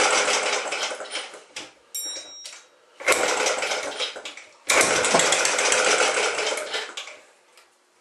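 Old small gasoline engine that hasn't run in years being cranked over in three bursts of a second or two each, with short pauses between; it does not start and keep running.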